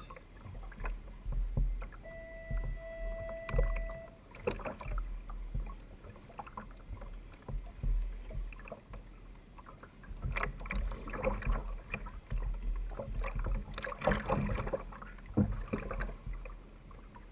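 Water slapping and sloshing against a kayak's hull, with scattered knocks and thumps as the angler moves and reels in a hooked fish. A short steady tone sounds for about two seconds near the start.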